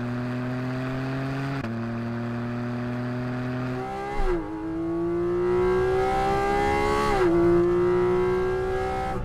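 Porsche 718 Cayman GT4 RS's naturally aspirated 4.0-litre flat-six accelerating hard. Its pitch climbs steadily through the gears, with quick upshifts about four and seven seconds in, each dropping the pitch before it climbs again.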